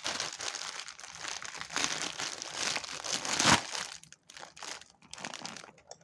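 Plastic bag being crinkled and pulled open by hand, a dense crackling for about four seconds that thins out to a few light rustles near the end.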